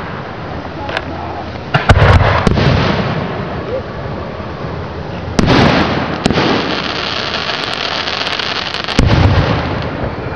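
Aerial firework shells bursting: four loud booms a few seconds apart, each followed by a long fading rumble, with sharp cracks in between.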